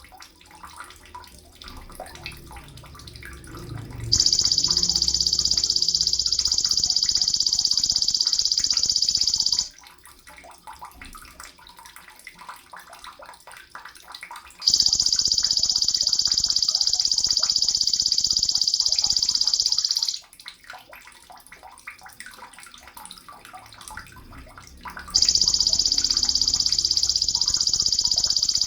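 Sogon birdsong: three long, high, hissing trills of about five and a half seconds each, coming roughly every ten seconds, with faint short chirps in between.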